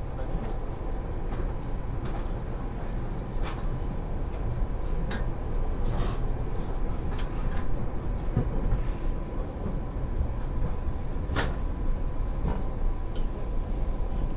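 PKP Intercity EuroCity passenger train on the move: a steady rolling rumble of wheels on rails, growing louder over the first several seconds as it picks up speed, with a few sharp clicks along the way.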